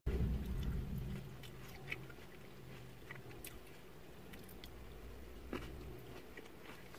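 A person chewing grapes, with faint wet clicks and small crunches. A brief low rumble sounds at the start.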